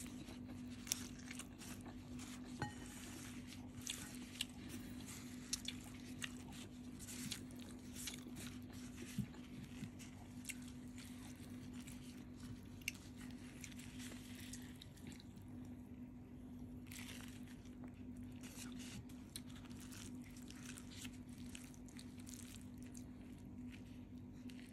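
Close-miked chewing of a large mouthful of stir-fried noodles and rice: quiet wet chewing with frequent small mouth clicks.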